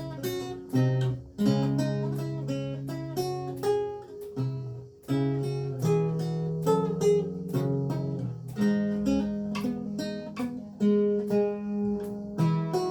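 Renaissance lute with gut strings being played: a plucked melody of several notes a second over held, ringing bass notes, with the occasional chord.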